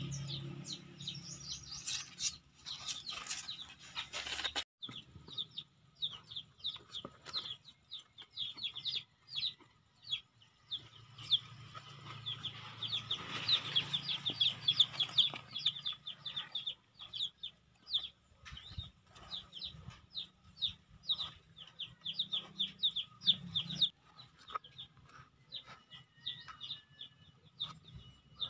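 Birds chirping, many short high chirps a second, with a burst of rustling and knocking in the first few seconds.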